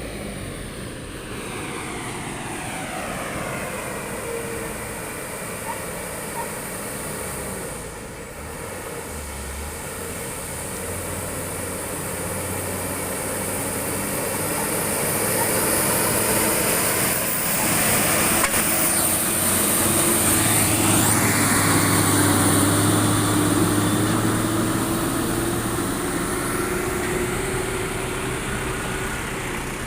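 Heavy truck engines running on the road, growing louder toward the middle with a rising whine and then easing off as the trucks pass.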